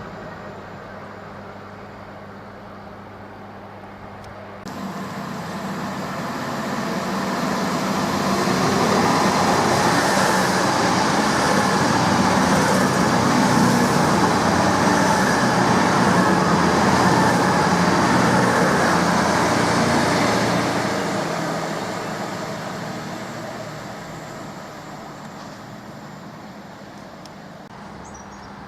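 A train passing through a station: a rushing, rumbling noise that rises from about five seconds in, is loudest for around ten seconds in the middle, then fades away.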